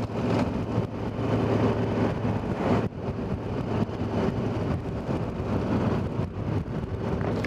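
KTM 990 Adventure's V-twin engine running steadily while the motorcycle is ridden, under a rush of wind noise, with a brief dip in level about three seconds in.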